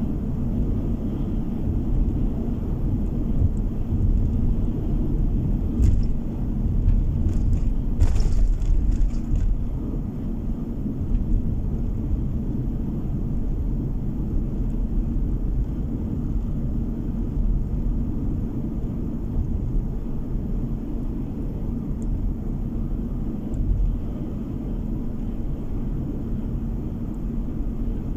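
Steady low rumble of a car driving along, engine and tyre road noise heard from inside the cabin, with a few brief clicks or rattles about six and eight seconds in.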